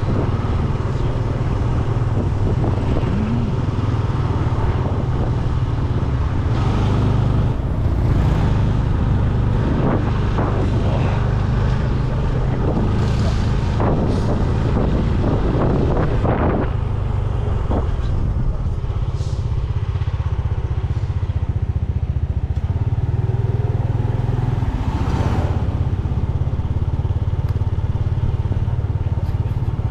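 Motorbike engine running steadily at cruising speed on the road, with a few brief swells of rushing noise.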